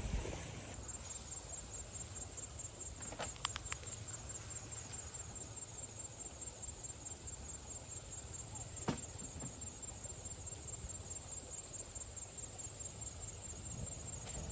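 Insect trilling, a high steady pulsing tone, with a few sharp clicks about three seconds in and again near nine seconds.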